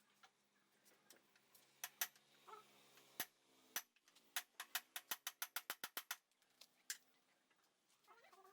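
A series of sharp clicks and taps, a few scattered at first, then a quick even run of about ten at roughly six a second in the middle, and one more near the end.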